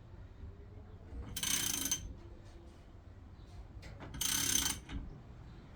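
Ratchet wrench clicking in two short runs, about a second and a half in and again just past four seconds, as the rebuilt Subaru EJ20 short block is turned over by hand; it turns a bit more freely than when it was bought.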